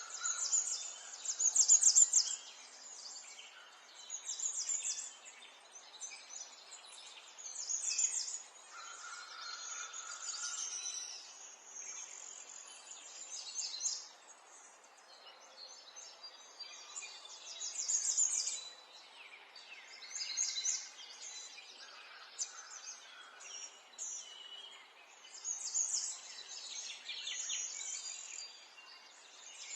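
Small songbirds chirping and twittering in quick high trills that come in bursts every few seconds, over a steady background hiss of outdoor ambience.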